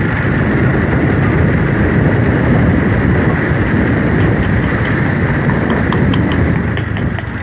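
A vehicle on the road, with steady engine and road noise.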